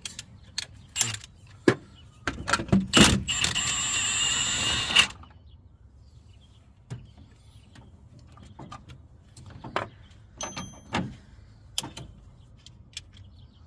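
Metal hand tools clicking, clinking and knocking during work on a truck's brake booster mounting hardware. About two seconds in there is a loud, rasping, metallic rattle lasting roughly three seconds, followed by sparser clicks and taps.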